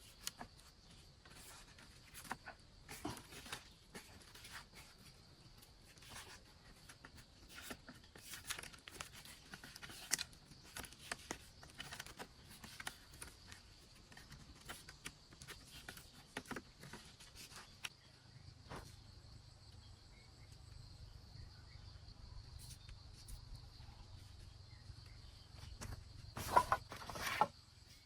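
Faint, scattered knocks and rustles of someone working and moving about in the woods, over a steady, thin, high insect drone. A louder cluster of knocks comes near the end.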